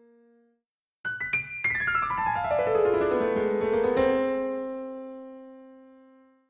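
Cartoon piano sound effect: a few struck notes, then a quick run falling down the keyboard, ending on a chord that rings out and fades away.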